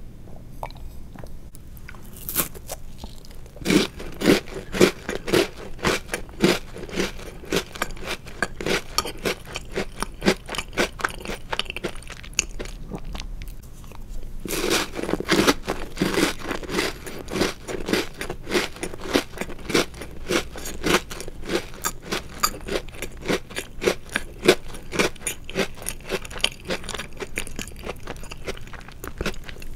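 Chocolate-covered Oreo cookie being bitten and chewed, rapid crisp crunching. There are two bouts of chewing, the second starting strongly about halfway through after a brief lull.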